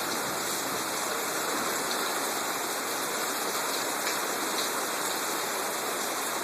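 Rain falling steadily during a thunderstorm, an even hiss of rain.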